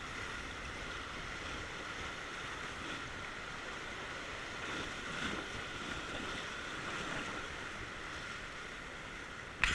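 River water rushing steadily around an inflatable raft, a constant hiss of moving water, with a sudden louder rush of noise at the very end.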